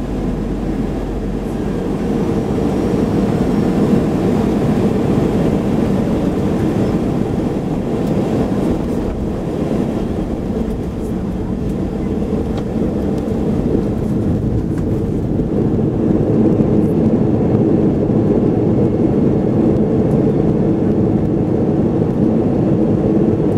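Airbus A321 cabin noise during landing: a steady rumble of engines and rushing air heard from inside the cabin, growing somewhat louder in the second half.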